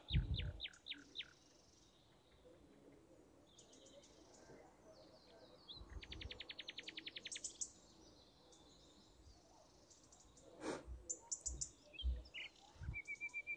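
Faint bird chirping: a few quick chirps, then a fast trill, and a short held whistle near the end.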